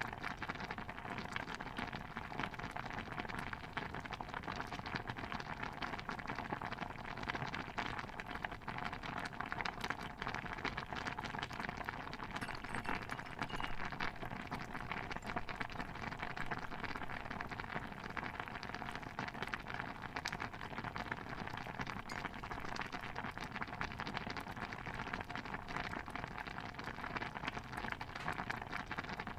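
Stew bubbling in a pot: a steady, dense patter of small pops.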